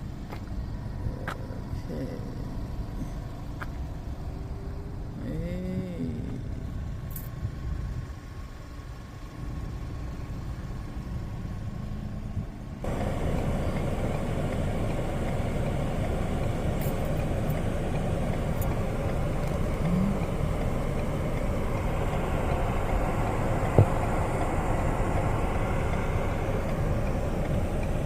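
Car running, heard from inside the cabin: a steady low engine and road rumble that turns suddenly into a louder, wider rushing hiss about halfway through, with a single sharp click near the end.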